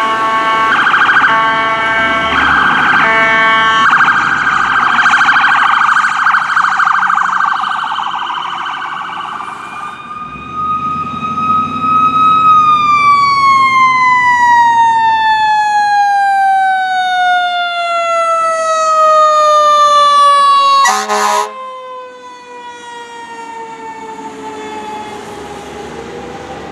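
Emergency sirens: an ambulance's electronic siren switching between tones and then warbling, followed by a fire engine's mechanical Q siren that holds a high wail and then winds slowly down in pitch. About two-thirds of the way through, a short blast of the fire engine's air horn sounds over the winding-down siren.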